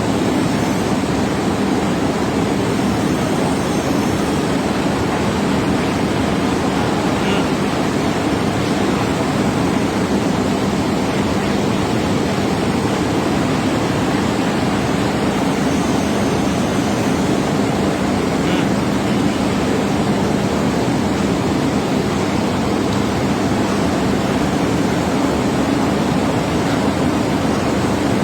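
Rewound ABB 500 HP electric motor running steadily on a test run: an even rushing noise with a steady low hum underneath.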